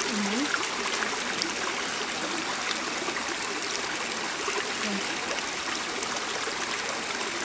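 Steady rushing of a flowing rainforest stream, with a brief faint voice near the start and about five seconds in.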